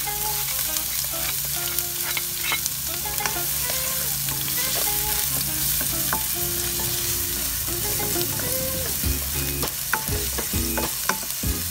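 Minced garlic and chopped onion sizzling in hot sesame oil in a nonstick wok, with a spatula stirring them and scattered clicks and scrapes against the pan.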